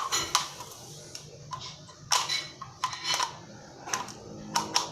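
Toy cars and toy pieces being handled and set into a toy truck: irregular light clicks and knocks.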